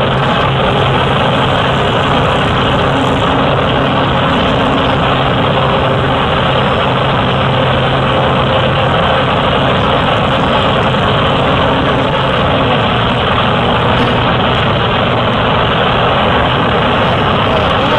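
Cessna light aircraft's piston engine and propeller, heard from inside the cabin, running with a loud, steady drone.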